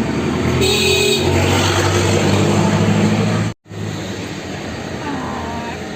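A car engine running with a steady low hum. The sound cuts out for a moment about halfway through, then comes back quieter.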